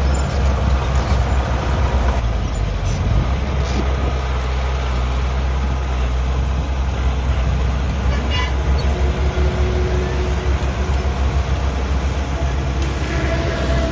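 Diesel engine of heavy earthmoving machinery running steadily under load, with a few short metallic clanks and squeaks.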